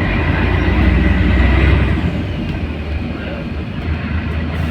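Scania L113CRL bus's six-cylinder diesel engine running with a deep rumble that builds over the first two seconds, then eases off.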